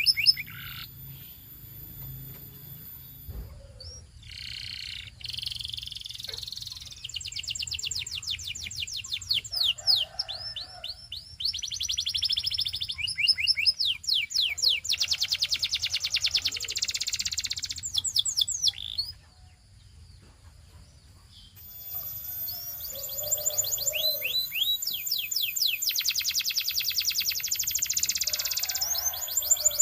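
Canary singing: long rapid trills and quick runs of repeated down-sweeping notes. The song stops for about two seconds a little past the middle, then resumes.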